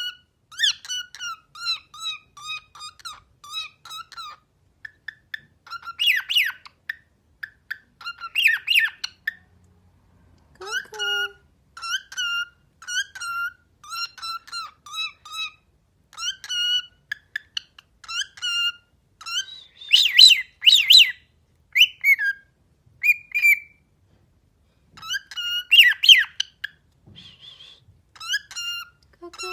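Cockatiel chirping and whistling in runs of short repeated notes, with a few harsher squawks mixed in.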